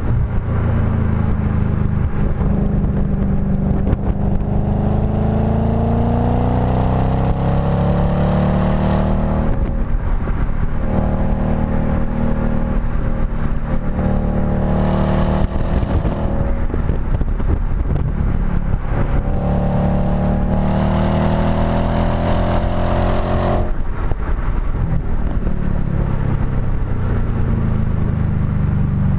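Audi B7 S4's 4.2-litre V8 through a STaSIS exhaust, heard at the tailpipe, pulling hard on track. The pitch climbs steadily through the revs with short breaks at the gear changes, then falls away about three-quarters of the way through as the throttle comes off.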